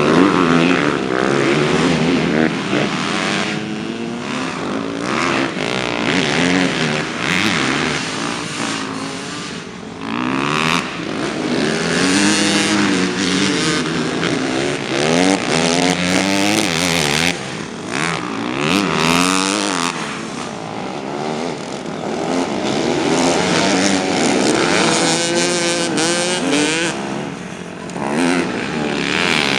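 Several motocross bikes racing, their engines revving up and falling back repeatedly with the pitches of more than one engine overlapping.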